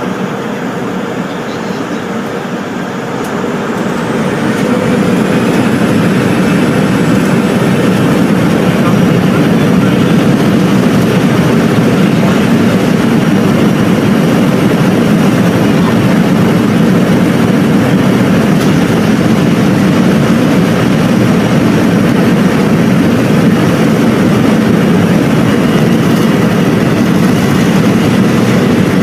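Jet airliner's engines heard from inside the cabin, spooling up to takeoff thrust over the first few seconds with a rising high whine, then a loud steady roar through the takeoff roll.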